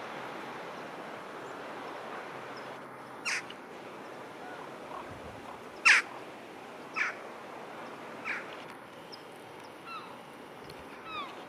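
Bird calls: four short, harsh caws, the loudest about halfway through, then a few short falling chirps near the end, over a steady hiss.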